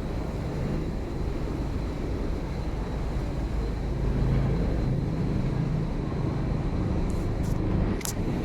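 Melbourne Metro electric suburban train running, a steady low rumble and drone, with a few faint clicks near the end.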